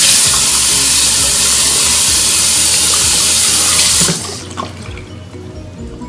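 A loud, steady rush of running water, starting abruptly and cutting off suddenly about four seconds in.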